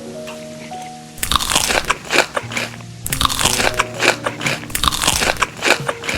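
Crunchy food being bitten and chewed close to the microphone, a dense crackling crunch that starts about a second in, breaks off briefly, then resumes, over background music with a simple melody.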